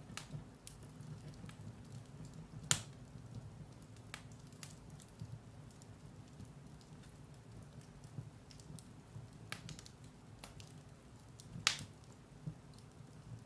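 Firewood burning in a fireplace: a soft low rush of flames with scattered small crackles, and two sharper pops about three seconds in and near the end.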